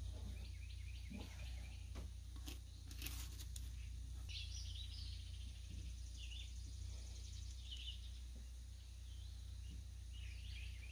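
Faint outdoor ambience: birds chirping now and then over a steady low hum. There are a few faint taps in the first few seconds.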